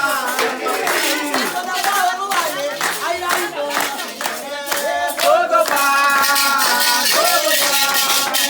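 Voices singing a Candomblé chant for Xangô, accompanied by a rattle shaken in rhythm.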